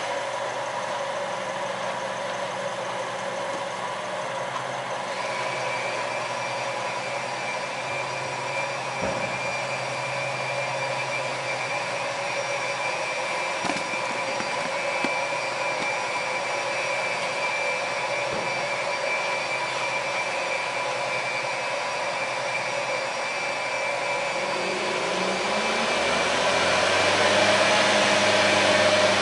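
Mitsubishi Delica D:2 minivan's petrol engine idling steadily, its pitch and loudness rising near the end as it is revved.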